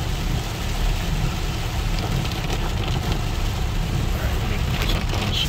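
Heavy rain hitting a car's windshield and roof, heard from inside the moving car: a steady dense hiss over the low rumble of the car on the wet road, with the windshield wipers running at full speed.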